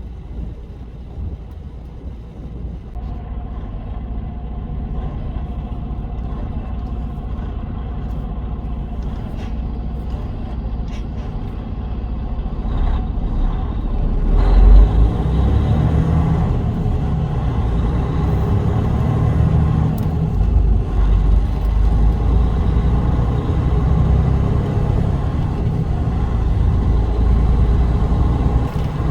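Car driving on a highway: a steady low rumble of engine and road noise that slowly grows louder. About halfway through there is a thump, and after it the noise is louder and fuller.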